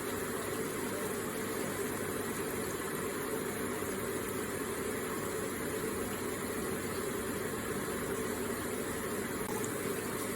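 Water from an electric water feature trickling and splashing steadily, an even, unbroken flow.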